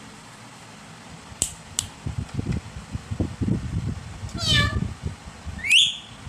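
Pet parrot calling: a short meow-like call about four seconds in, then a loud rising whistle near the end. Two sharp clicks come about a second and a half in, and low knocks run underneath.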